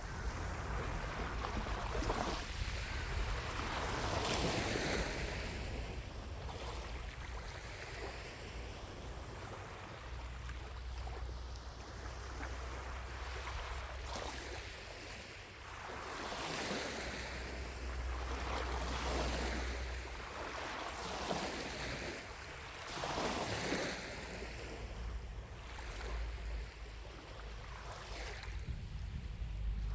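Small lake waves lapping on the shore, a soft wash that swells and ebbs every few seconds, over a low rumble.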